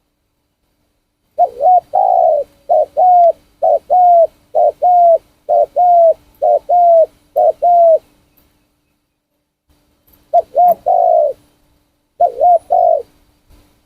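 Spotted dove cooing. It gives a quick run of about ten paired coos, then after a pause two shorter phrases near the end.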